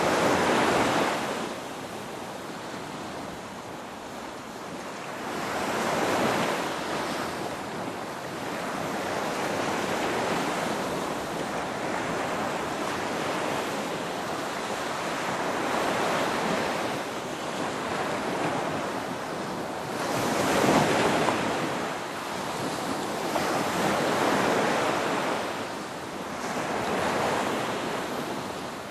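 Ocean waves breaking and washing in, a steady surf that swells every few seconds, loudest near the start and about two-thirds of the way through.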